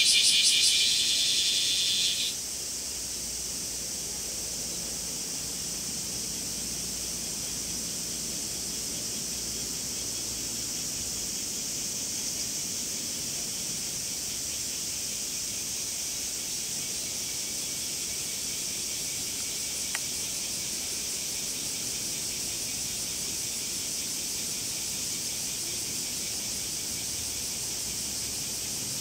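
A nearby cicada's loud, pulsing buzz cuts off abruptly about two seconds in. A steady high-pitched drone of more distant cicadas carries on after it, with one faint click about twenty seconds in.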